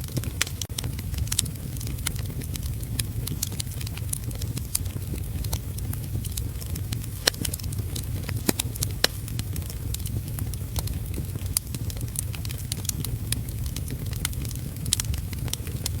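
Wood fire in a fireplace crackling, with frequent irregular sharp pops over a steady low rumble, mixed with heavy rain.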